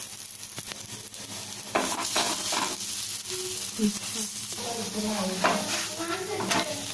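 Drumstick-leaf adai dough sizzling in oil on a hot tawa, with hands patting the dough and a wooden spatula pressing and scraping, giving scattered sharp taps over the steady sizzle.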